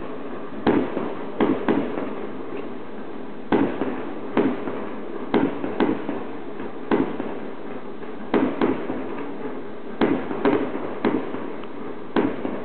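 Aerial fireworks shells bursting: a string of sharp bangs at uneven spacing, about one a second and often two in quick succession, over a steady background hiss.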